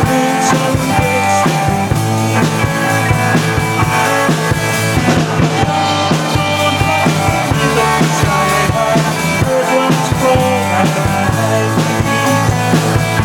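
Rock band playing live: jangly electric guitars over bass and a drum kit keeping a steady beat.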